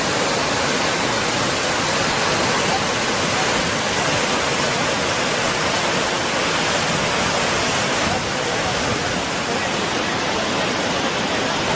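Loud, steady rushing of water with no break, dipping slightly in level about eight seconds in.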